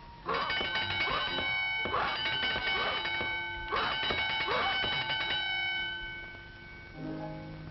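Bell ringing in two bursts of about two seconds each, a rapid run of strikes with a clanging ring that hangs on. It follows a shout of "Silence!", so it reads as a studio signal bell calling for quiet before a take. Near the end a low held musical chord begins.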